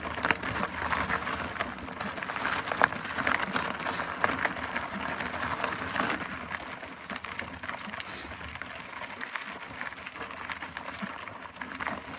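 Mountain bike rolling along: tyre noise with irregular rattles and clicks from the bike.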